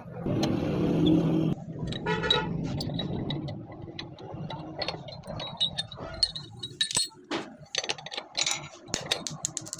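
Metallic clinking and clattering: a string of sharp, irregular clicks with a bright ringing after some of them, after a louder humming stretch in the first second and a half.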